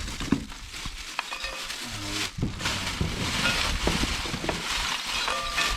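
Fire crackling and hissing with scattered sharp pops as a charcoal coal pot is being lit.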